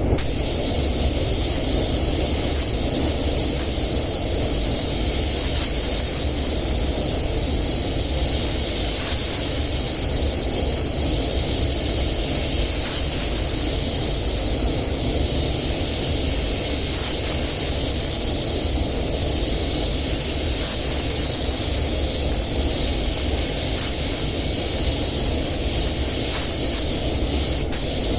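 Compressed-air paint spray gun hissing steadily, with a low rumble underneath.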